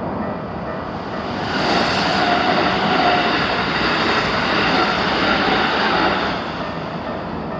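A Keikyu electric train passing through a level crossing. Wheel and running noise swells about a second and a half in, holds for about five seconds, then fades. The crossing's electronic warning bell keeps ringing underneath.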